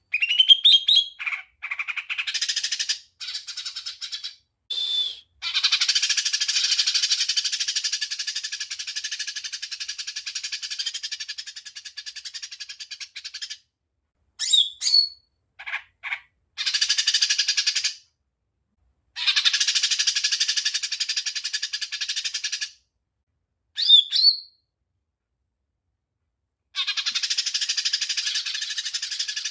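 Green leafbird (cucak ijo mini) singing its 'tembakan' song: long runs of very fast, rattling repeated notes, each lasting several seconds, broken by pauses and by short rising whistles.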